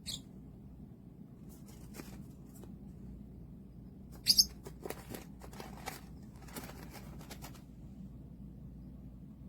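A pet bird moving about with rustles and wing flaps, and two short, sharp chirps close together about halfway through.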